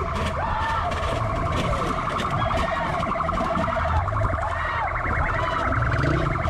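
Police motorcycle siren sounding in a fast, pulsing warble, with a few slower rising-and-falling sweeps, over a low engine rumble.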